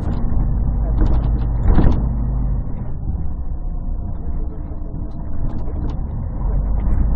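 Scania CN113CLL city bus's Scania DSC 11 diesel engine running, heard from inside the bus as a steady low drone, bass-heavy and muffled by a partly covered microphone. A loud thump about two seconds in.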